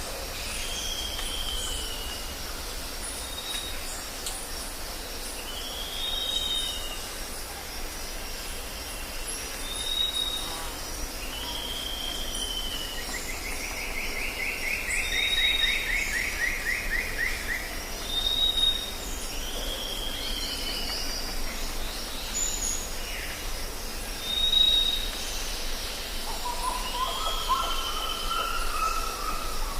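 Jungle ambience: birds calling over a steady high insect drone. One bird repeats short whistled calls every couple of seconds. A fast descending trill comes about halfway through, and a lower rising call comes near the end.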